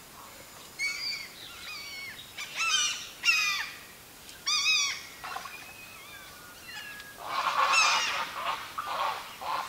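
Several wild birds calling from the riverside forest: a string of short, arching calls, then a louder, harsher run of calls near the end.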